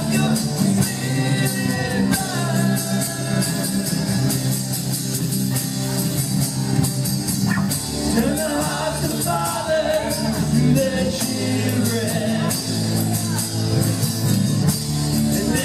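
Live worship band playing a song with a lead vocal over electric guitar, keyboards and a steady drum beat with cymbals.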